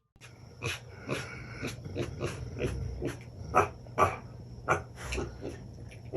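A dog making a string of short, irregular sounds, about two or three a second, over a steady low hum.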